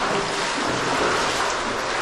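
Waterfall in a cave: a steady, loud rush of falling water.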